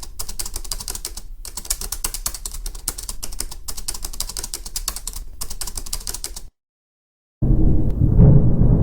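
Rapid typewriter clicking with a few brief pauses, stopping about six and a half seconds in. After a short silence, a loud low-pitched sound begins near the end.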